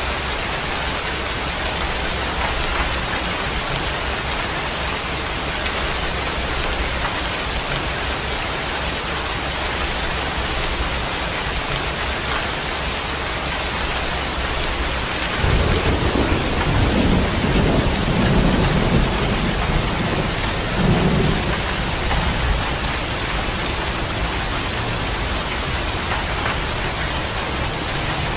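Steady rain falling, with a low roll of thunder rumbling in about halfway through, swelling in several surges for six or seven seconds before fading back to the rain.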